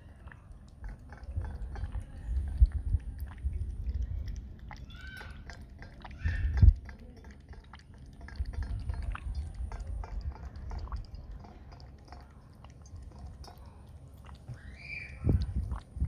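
Cat feeding on milk: a run of wet lapping and chewing clicks, with low bumps, the loudest about six and a half seconds in. Short cat meows come around five to six seconds in and again near the end.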